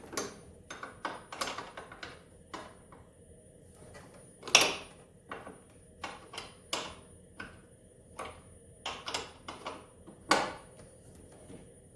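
Irregular metallic clicks and clinks of a box-end wrench working on snowmobile engine bolts, with louder clanks about four and a half seconds in and again near the end.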